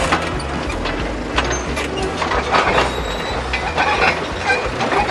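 Heavy-machinery sound effects of an excavator at work: a steady low engine rumble under continual clanking and clattering of metal and rubble.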